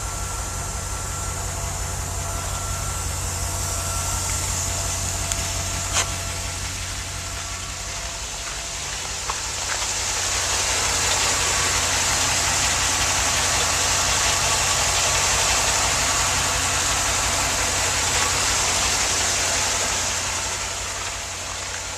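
The 2002 GMC Blue Bird Handybus's 8.1-liter gasoline V8 idling steadily, with a hiss that swells about ten seconds in and eases off near the end. A single click about six seconds in.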